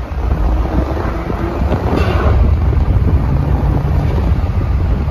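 Car accelerating hard in a drag race, heard from inside a moving car: a loud, deep engine rumble mixed with wind buffeting the microphone, growing louder about half a second in and again a couple of seconds later.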